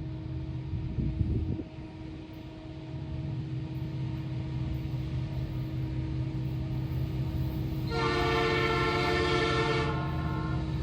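Diesel locomotive's air horn sounding one chord blast of about two seconds, near the end, over the steady low rumble of the locomotive's engine.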